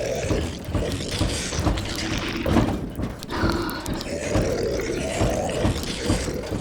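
Sound-design zombie moaning and growling, several low, drawn-out voices layered over a steady rain-on-roof hiss, with frequent dull low thuds.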